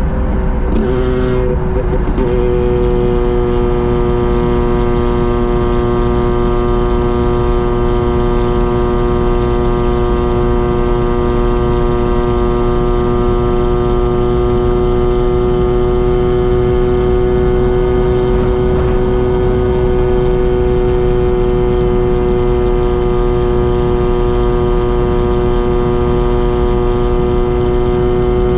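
Mazda RX-7's two-rotor Wankel rotary engine and exhaust running under way. The tone breaks briefly and settles a little lower about a second in, then holds a steady, even drone at constant engine speed while cruising.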